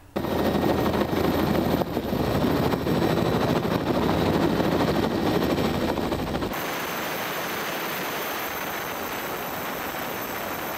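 Helicopter heard close, its rotor and turbine giving a loud, rapid blade chop over a low rumble. About six and a half seconds in it changes abruptly to a steadier, quieter rushing drone.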